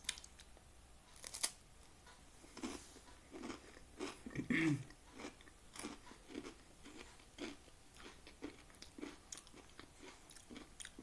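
Crunching of knäckebröd (Swedish crispbread) with ham and cheese: a sharp crack of a bite a little over a second in, then crunchy chewing about twice a second. A short hum from the eater, the loudest sound, comes about halfway through.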